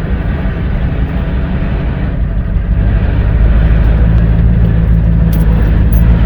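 Vehicle engine running under way with a low rumble. Its note becomes steadier and louder about halfway through, as if under more throttle.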